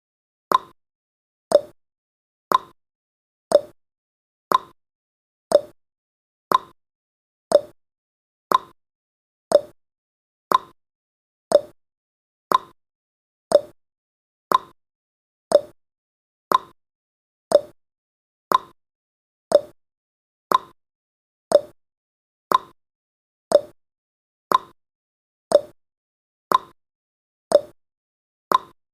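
Countdown timer's clock-tick sound effect: one short, sharp tick every second, alternating higher and lower like a tick-tock, counting off the seconds.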